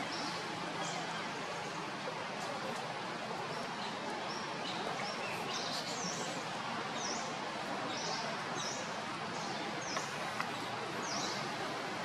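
Steady outdoor background hiss with a small bird chirping repeatedly, short high notes about once a second from a few seconds in.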